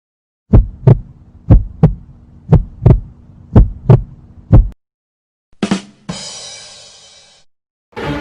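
Heartbeat sound effect: about five slow double thumps (lub-dub), roughly one a second. After a short pause comes a brief hit and then a fading, rushing, ringing sound that lasts a little over a second.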